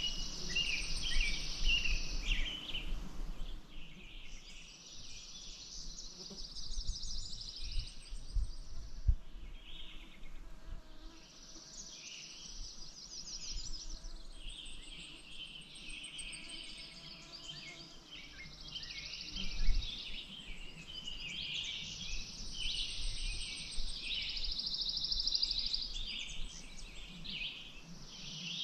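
Several songbirds singing in repeated phrases, some of them fast trills. A few low thumps and rumbles come through underneath, the loudest about two-thirds of the way through.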